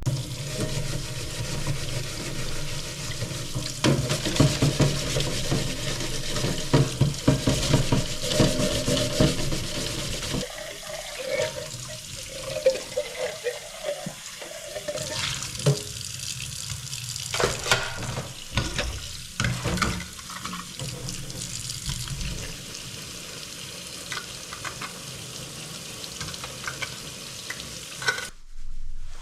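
Water running and splashing, with scattered clicks and knocks of things being handled, busiest in the first ten seconds.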